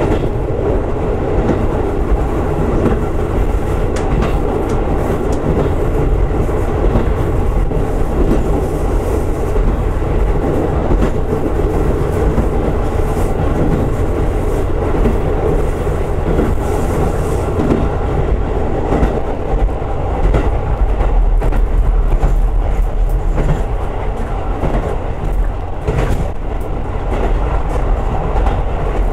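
Diesel railcar running along the track: a steady rumble of engine and wheels, with an occasional clack as the wheels cross rail joints.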